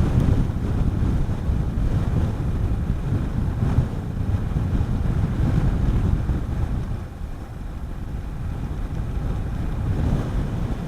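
Wind buffeting the helmet microphone on a moving motorcycle, with the Honda CB400SS's single-cylinder engine running underneath. The rumble eases off about seven seconds in.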